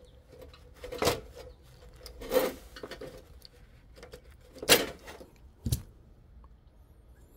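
Four short clinks and knocks of metal parts as an electric hot plate is handled during repair: about a second in, at about two and a half seconds, near five seconds, and once more a second later.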